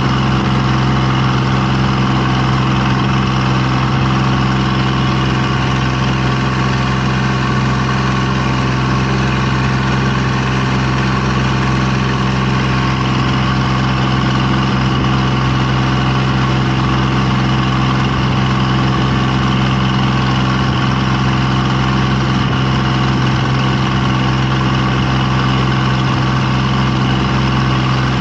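A steady engine-like drone running evenly, with a deep hum and several overtones that do not change in pitch or loudness.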